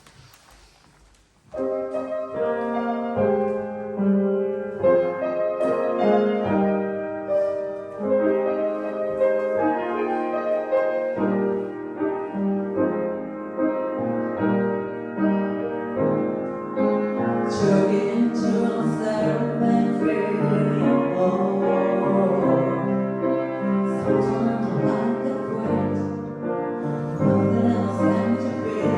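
Piano music begins about a second and a half in, after near silence, and becomes fuller and brighter from about halfway.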